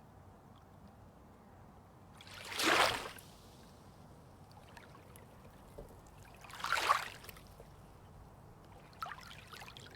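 Small sea waves washing in on a calm day: two soft surges of water about four seconds apart, each swelling and fading within a second, with a faint fizzing of foam near the end.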